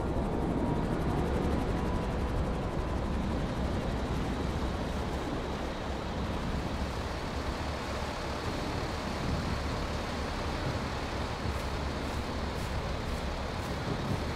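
Motor vehicle driving: a steady engine rumble with road noise, the deep low end strongest throughout.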